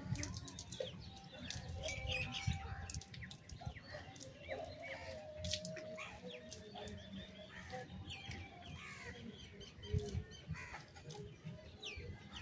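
Birds chirping and calling in many short, quick notes, over a low rumble.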